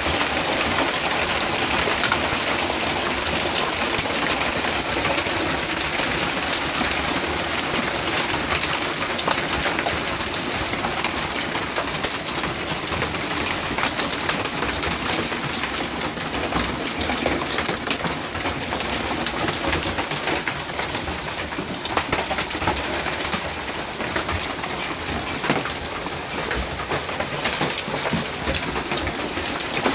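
Hailstorm: a dense, steady clatter of countless small hailstones striking a hard surface, mixed with a constant downpour hiss.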